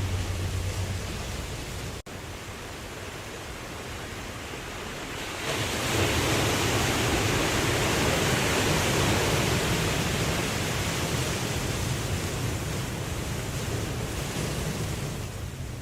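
Ocean waves washing in a steady rush, with a brief gap about two seconds in. The surge then swells louder about five seconds in and eases off near the end.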